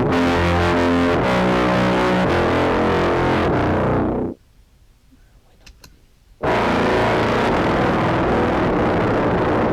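Contrabass clarinet played through an octave pedal adding one and two octaves below into a fuzz, giving a thick, distorted low tone. It changes note twice, stops about four seconds in, and after a two-second gap a new note is held.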